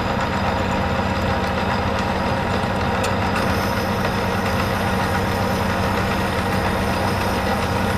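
Metal lathe running steadily while a jobber-length twist drill cuts a deep hole into a metal bushing blank, a constant mechanical hum with a few steady low tones.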